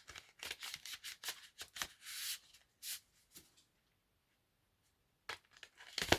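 A deck of oracle cards being shuffled by hand: a quick run of card slaps and rustles, then a pause, then a few more card taps near the end as a card is drawn.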